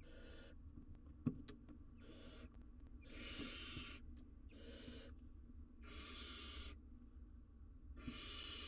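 Barn owl owlets hissing: six rasping hiss calls, each about half a second to a second long and roughly a second apart. A single sharp knock comes about a second in.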